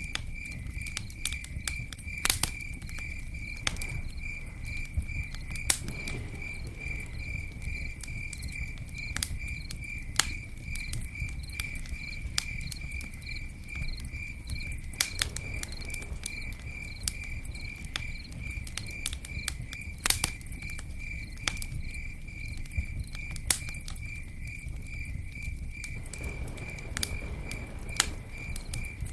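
Campfire crackling, with sharp pops scattered throughout over a low, even rush of flame. A cricket chirps steadily in an even, high-pitched pulse.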